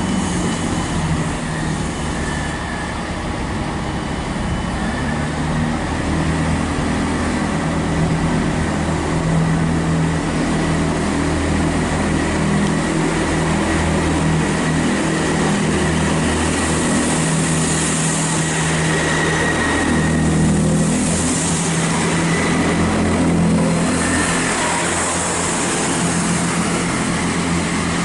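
Class 166 Turbo diesel multiple unit's engines running steadily at the platform, with bursts of hiss in the second half.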